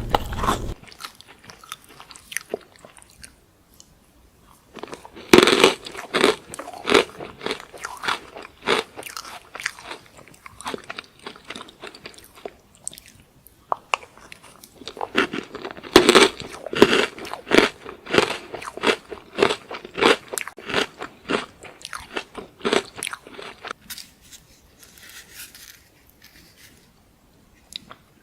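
Close-miked crunchy chocolate snack being bitten and chewed: sharp crunches come in runs, with the loudest bites about five seconds in and again about sixteen seconds in, thinning to quieter chewing near the end.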